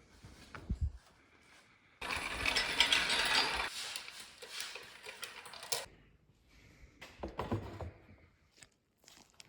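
A ratchet wrench being worked: a fast run of ratcheting clicks that starts abruptly about two seconds in and fades out a few seconds later, with a few short metallic knocks before and after.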